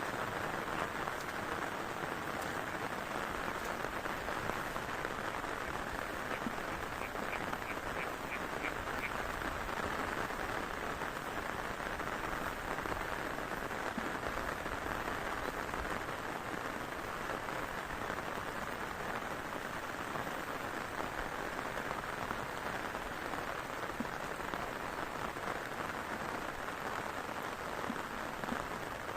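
Heavy rain falling steadily. About seven seconds in, a short run of about six quick repeated animal calls sounds through the rain.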